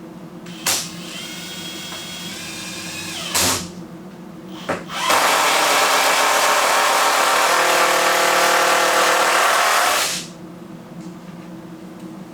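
Power drill running in two bursts: a shorter run with a steady whine starting about a second in, then a louder, longer run of about five seconds starting about five seconds in.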